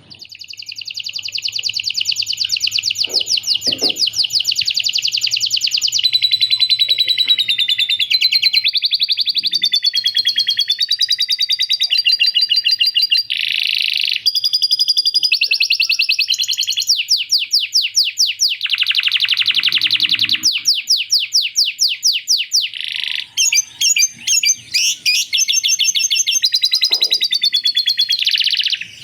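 Male canary singing a long, nearly unbroken song of fast trills and rolls, a tutor song carrying phrases learned from a lovebird's chatter.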